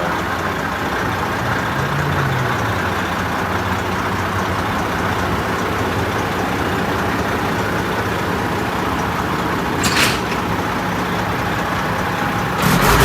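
Heavy truck's diesel engine running steadily. There is a short burst of noise about ten seconds in and a louder one near the end.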